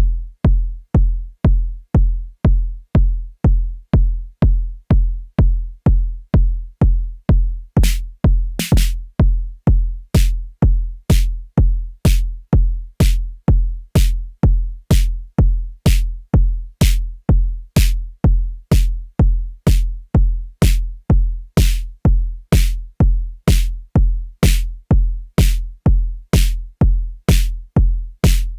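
Arturia DrumBrute Impact analog drum machine playing a steady four-on-the-floor kick drum pattern, about two deep booming hits a second. About eight seconds in, a bright, hissy percussion hit joins the kick every second or so.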